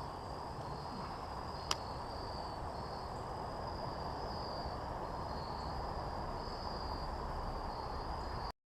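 Insect chorus of crickets or similar, a steady high chirring that swells and fades in slow pulses over a low background hiss. A single sharp click sounds just under two seconds in, and the sound cuts off suddenly near the end.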